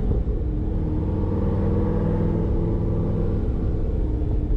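Corvette ZR1's supercharged V8 running at a steady cruise, with a deep exhaust rumble and road noise heard from inside the car.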